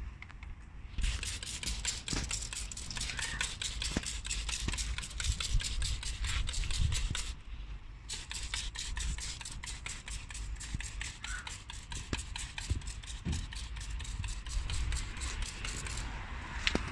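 Detailing brush scrubbing over engine bay surfaces in quick, scratchy strokes, working degreaser in to lift grease and dirt. There are two spells of scrubbing, with a short pause about seven seconds in.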